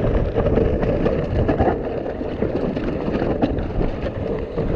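Mountain bike descending a wet, muddy trail: a steady low rumble of tyres and wind buffeting the microphone, with frequent short knocks and rattles from the bike over rough ground.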